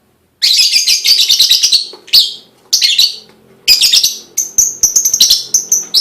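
Lovebird singing: rapid, dense chattering chirps in several bursts with short pauses between, starting about half a second in.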